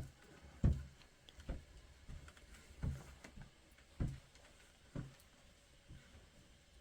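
A series of dull, low knocks, roughly one a second but unevenly spaced, with faint clicks between them.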